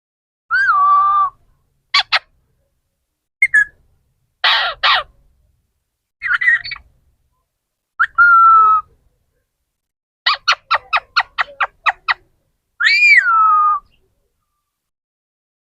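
A parrot calling in short separate bursts: whistled notes, a harsh squawk, and a quick run of about nine clipped notes, with silence between the calls.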